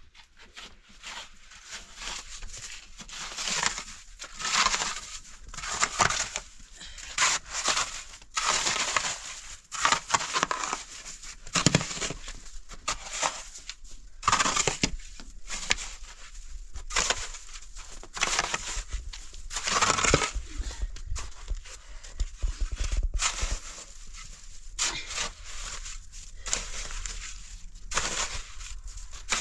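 Irregular crunching and crackling, coming in a close run of uneven bursts.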